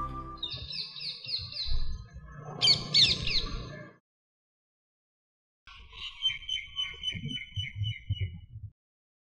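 Birds chirping: a quick run of evenly repeated high notes, then a few louder, sharper calls. The sound cuts out abruptly to silence for about a second and a half, and then another run of repeated chirps follows.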